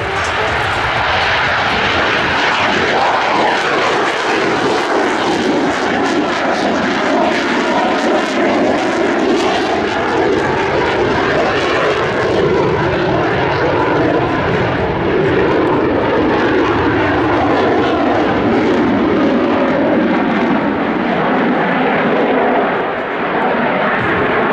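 Rutan Long-EZ's 200-horsepower Lycoming IO-360 four-cylinder engine and pusher propeller running at display power during aerobatics, the engine note rising and falling in pitch as the aircraft manoeuvres and passes.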